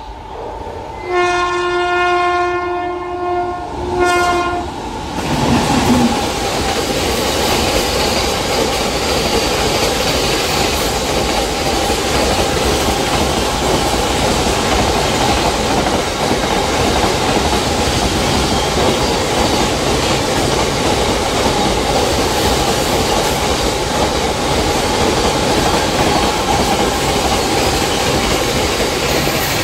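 Goods train running through a station: its locomotive sounds one long horn blast and then a short one, and then the train rushes past at speed with a loud, steady rumble and wheel clatter on the rails.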